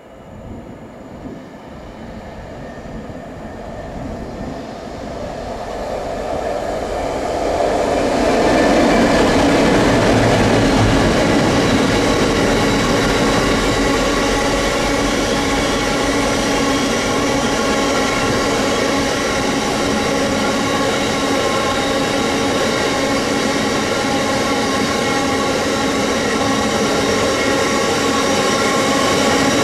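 A train approaching, growing louder over about eight seconds, then running loud and steady close by, with a mix of steady tones over the rumble.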